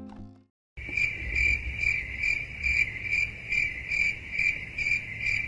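Cricket chirping in a steady, even rhythm of about two chirps a second, starting just under a second in after a moment of silence.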